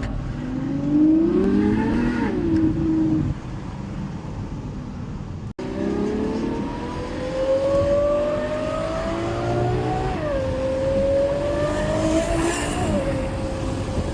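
Ferrari FF's naturally aspirated V12 through a Novitec exhaust, accelerating hard. The engine note climbs and drops at an upshift about two seconds in. After a short break it climbs again in long pulls, with two more upshifts near the end.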